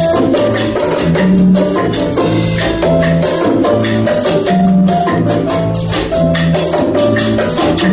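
Small Latin ensemble playing a salsa groove: maracas shaking in a fast, steady rhythm over a repeating keyboard montuno pattern and low repeating bass notes.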